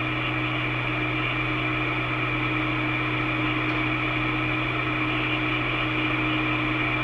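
Steady hiss and electrical hum of a two-way railway radio channel with nobody transmitting speech: dead air while a call goes unanswered.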